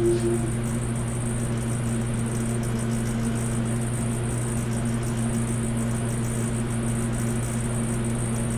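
A steady low hum with an even hiss under it, unchanging throughout and with no knocks or tool strikes.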